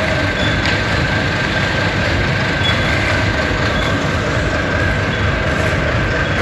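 AIMIX AS1.8 self-loading concrete mixer running: a steady, loud mechanical rumble with a constant high whine over it.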